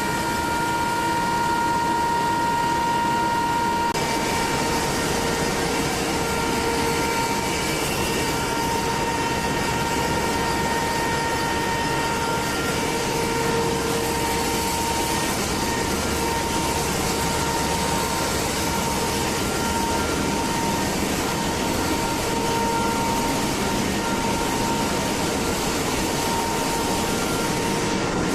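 A machine running steadily, with a hum and a steady high whine over a noisy roar; the sound shifts slightly about four seconds in.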